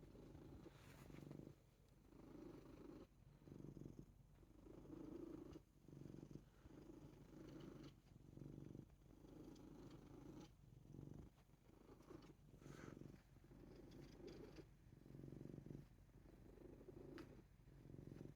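A ragdoll cat purring softly, the purr swelling and fading about once a second.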